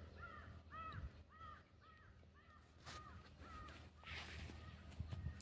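A bird calling over and over in a quick series of short, arched notes, about two to three a second, fading out about four seconds in.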